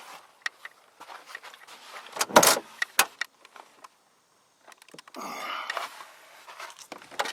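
Handling noises: scattered clicks and rustling, with one loud knock about two and a half seconds in and a sharp click just after it.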